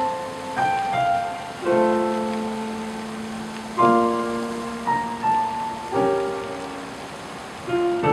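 Slow piano music: chords struck about every two seconds, each left to ring out and fade, over a steady hiss.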